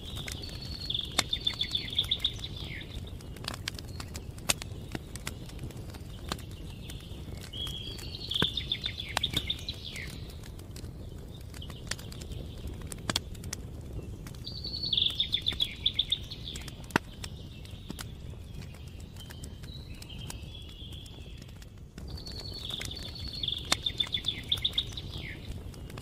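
Campfire crackling with scattered sharp pops over a low steady rumble. A songbird repeats a short, high trilled song about every seven seconds, four times, with fainter calls in between.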